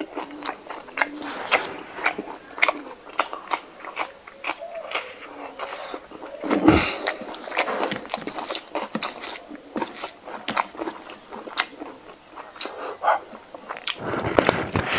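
Close-miked chewing and lip-smacking of a person eating fatty pork fry, rice and green chilli: a dense run of short wet smacks and clicks.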